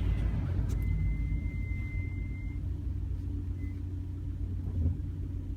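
VW Touran's diesel engine idling steadily, heard from inside the cabin, with a thin high tone for the first couple of seconds.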